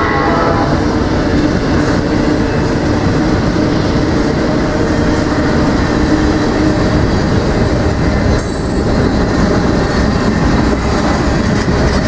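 Train passing close by: a loud, steady rumble of wheels and cars on the rails, with faint high wheel squeal now and then.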